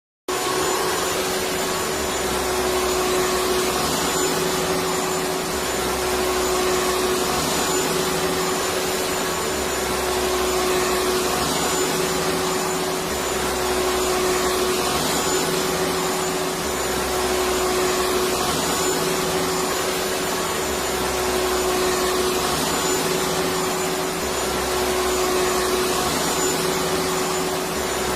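Electric vacuum cleaner running steadily: a dense, even whooshing hiss with a steady hum, and a faint low pattern that repeats every few seconds.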